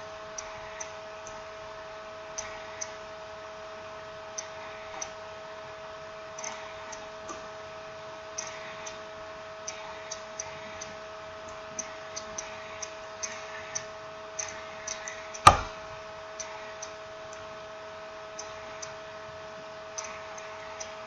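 Small irregular clicks and taps of small parts and tools being handled while a smartphone is put back together, with one sharp, much louder click about three-quarters of the way through. A steady electrical hum runs underneath.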